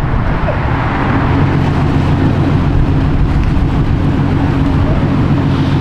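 A car engine running steadily and loudly, with a deep, even exhaust note.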